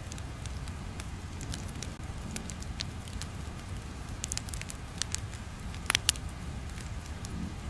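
Ambient crackling: scattered sharp pops and crackles over a low steady rumble, with a small cluster of louder pops about six seconds in.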